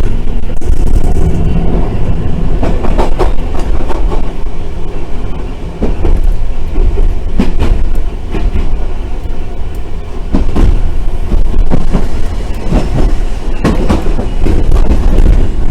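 Randen tram running along its line, heard from inside the car: a steady low rumble of wheels and motors, with the wheels knocking sharply over rail joints several times.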